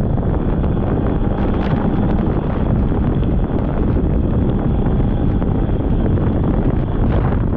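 Polaris snowmobile running along a trail at steady speed, its engine and track noise mixed with heavy wind buffeting on the microphone.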